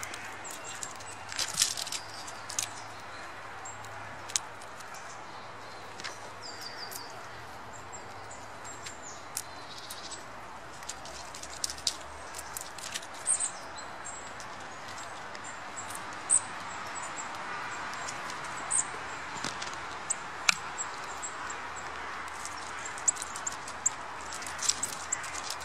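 Small wild birds giving brief high chirps now and then over a steady background hiss, with scattered sharp clicks.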